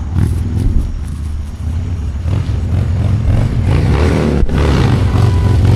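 Car engine revving, a low fluttering rumble that grows louder toward the end.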